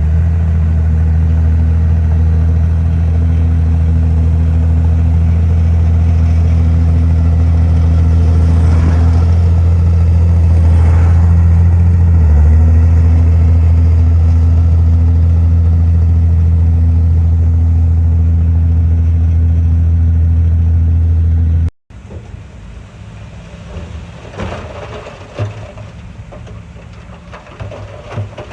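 Heavy diesel engine of earthmoving machinery running steadily at a low, even pitch. About three-quarters of the way through it cuts off suddenly, giving way to quieter, irregular clattering and knocks.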